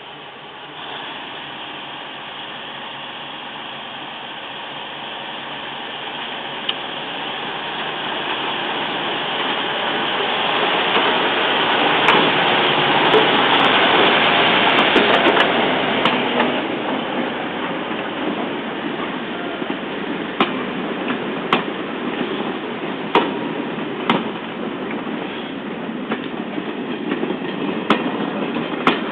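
Andrew Barclay diesel shunter pulling away with a train of coaches: engine and running noise build up and are loudest around the middle as it passes. The coaches then roll past, their wheels clicking over rail joints about once a second or more slowly.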